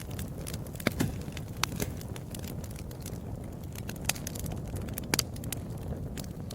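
Wood fire burning with a steady low rumble and irregular sharp crackles and pops, a few louder pops about a second in and just after five seconds.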